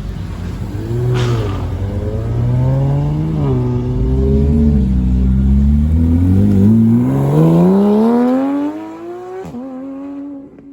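A car engine revving hard, its pitch wavering up and down and then climbing steadily as the car accelerates. About nine and a half seconds in the pitch drops sharply and the sound fades away.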